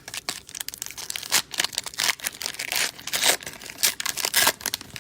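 Crinkling and crackling of a plastic cello-pack wrapper and trading cards being handled: a rapid, irregular run of sharp crackles.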